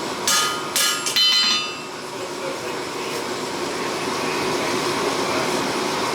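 Three hammer blows on metal in quick succession, each ringing on with a bell-like tone, in the first second and a half. After that comes a steady rushing noise.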